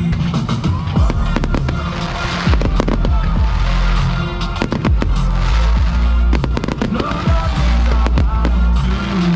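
Fireworks going off in quick succession, many sharp bangs and crackles a second, over loud music with a steady bass line.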